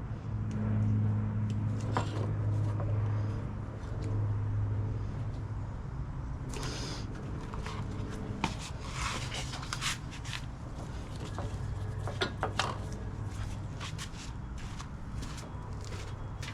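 Hand tools and metal parts being handled: scattered clicks, knocks and scrapes, coming thicker in the second half. A steady low hum underneath stops about eight seconds in.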